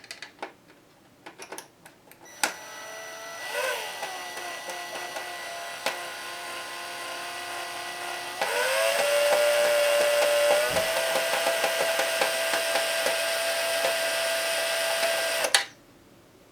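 A small handheld power tool's electric motor whines steadily at a stripped screw for about thirteen seconds. The pitch dips briefly early on, then rises and grows louder about halfway through, before the motor cuts off suddenly. A few light clicks come before it starts.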